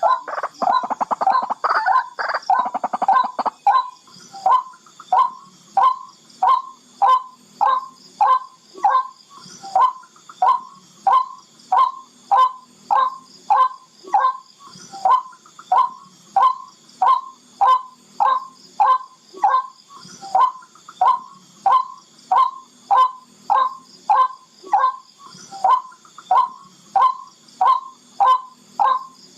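Barred rail calling: a fast, dense run of calls for the first few seconds, then a steady series of short, clipped calls repeated about one and a half times a second.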